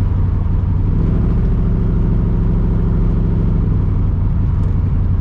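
1982 Camaro's 5.0 V8 running while the car is driven, a steady low engine note whose pitch shifts about a second in. There is a lot of valve chatter, which the driver puts down to old gasoline.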